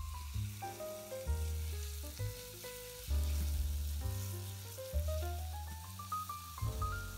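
Raw chicken breast pieces sizzling as they start to fry in hot oil in a pot, a steady hissing that sets in as the chicken goes in. Background music with a low bass line plays throughout.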